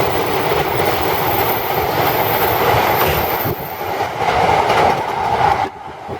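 Running noise of a moving 12-series passenger coach hauled by an electric locomotive, the wheels rolling on the rails, heard from aboard the train. The noise drops suddenly near the end.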